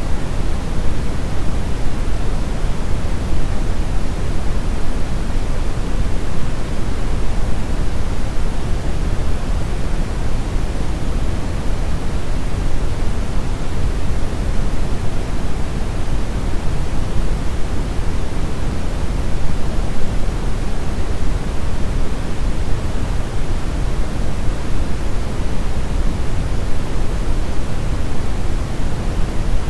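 Steady brown noise: an even, deep rushing hiss, heaviest in the bass and thinning toward the treble, with no changes.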